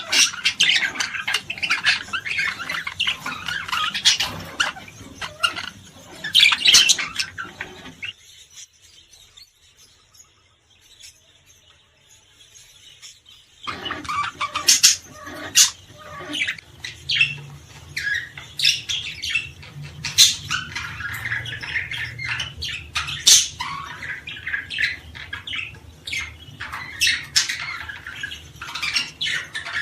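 Small songbirds chirping and twittering in quick, dense runs: a bird-song stimulation track for cage birds. The chirping stops for about five seconds a third of the way in, then starts up again.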